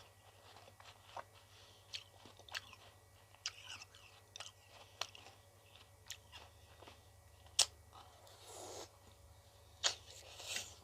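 Close-up eating of ice cream: chewing with sharp crunching clicks scattered irregularly throughout, and a longer, softer noisy sound about eight and a half seconds in.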